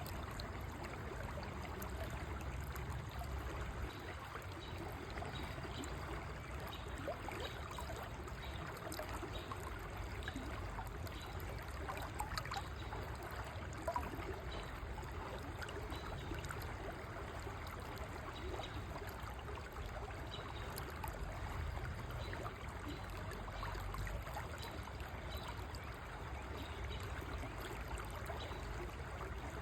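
River water flowing: a steady rushing trickle with a low rumble underneath.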